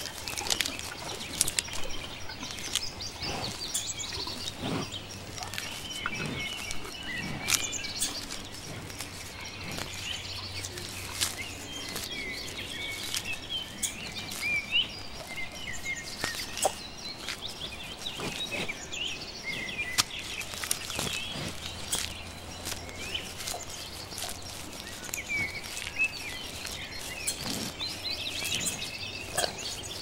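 Outdoor ambience of small birds chirping and twittering, many short calls rising and falling, with scattered sharp clicks.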